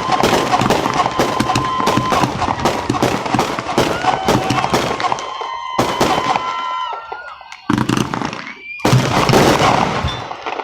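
Fireworks going off in a dense run of crackling bangs mixed with whistling tones held for a second or two. The barrage thins out about halfway through, and two more sudden loud bursts come near the end.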